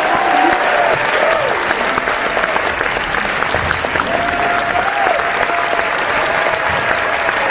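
A large crowd applauding steadily, with a few drawn-out cheers heard over the clapping near the start and again about four seconds in.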